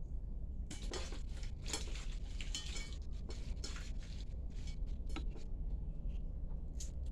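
Utensils clinking and scraping against dishes in irregular strokes, starting about a second in, over a steady low rumble.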